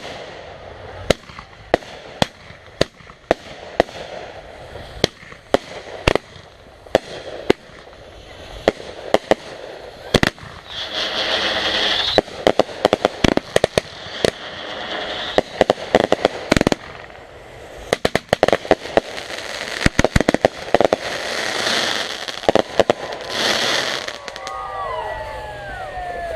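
Backyard consumer fireworks going off: a rapid, uneven string of sharp bangs, with two longer spells of hissing crackle, one about eleven seconds in and one just past twenty seconds.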